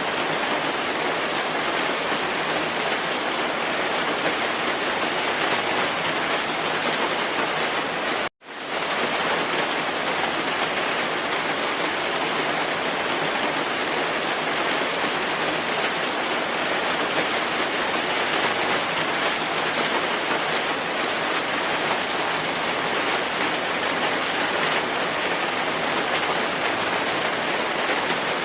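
Steady rainfall, a dense even hiss of drops. It cuts out for an instant about eight seconds in, then resumes at once.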